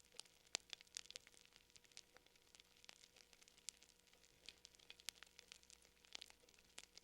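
Fire crackling quietly, with irregular sharp pops and snaps scattered through it, several a second at times, over a faint low hum.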